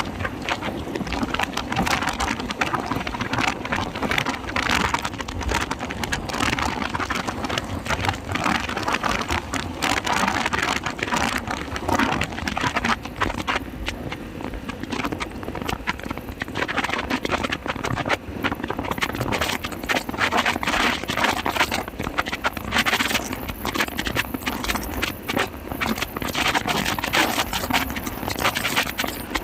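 Wind buffeting the microphone of a moving motorcycle, over steady engine and road noise, in rough, fluttering gusts.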